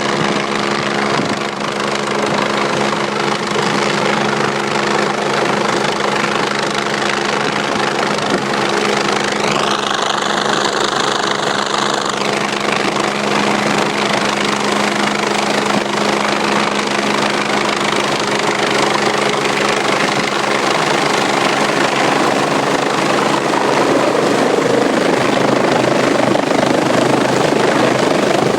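Agusta helicopter running steadily, its turbine and rotor making a constant hum over a heavy rushing noise, which grows louder near the end. About ten seconds in, a high tone rises and holds for about two seconds.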